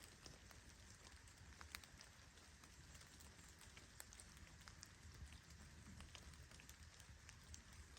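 Faint steady rain, with scattered individual drops ticking on a surface.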